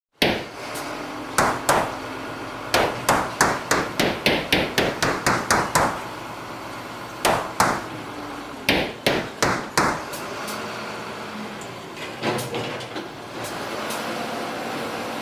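Hammering: sharp hammer blows in runs, the longest about a dozen strikes at roughly three a second, over a steady background hiss.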